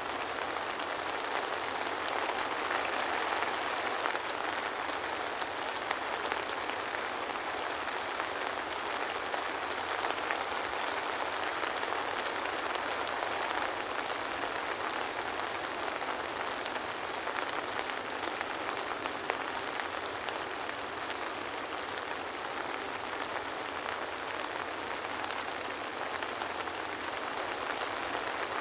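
Steady soft rain falling, a dense even patter of drops with no thunder.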